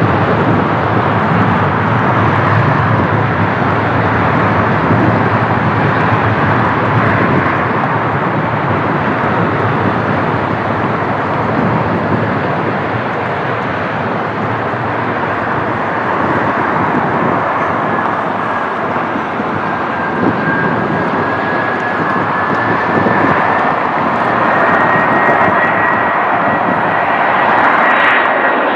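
Jet airliner engines running loud and steady, with a thin whine that comes in about halfway through and climbs slightly in pitch near the end.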